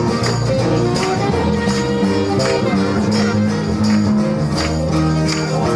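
A rock band playing an instrumental passage live, with bass, guitar and a steady beat with tambourine.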